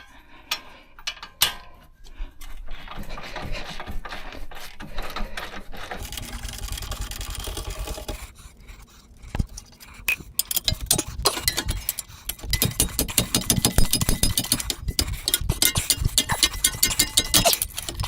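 Brake-job tool work: scattered metal clinks and scraping, then from about ten seconds in a long run of rapid metallic clicking from a tool.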